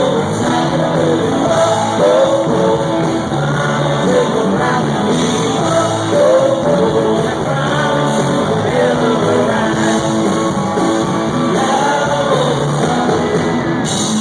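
A male country-rock singer and his band performing live: sung vocals over electric guitars and drums, loud and steady, heard through a phone's microphone.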